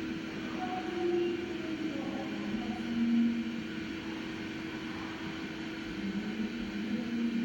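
Slant-bed CNC lathe running, a steady machine hum with shorter pitched tones that come and go.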